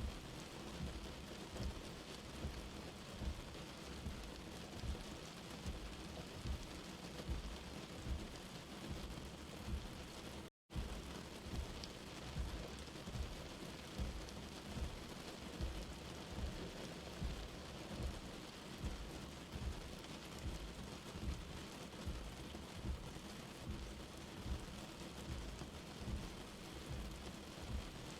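Light rain falling steadily, with low dull thuds recurring roughly once a second underneath. The sound drops out completely for a split second about ten seconds in.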